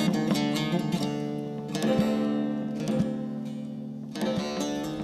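Background music on acoustic guitar: strummed chords left to ring out, with a fresh strum about two seconds in and another near the end.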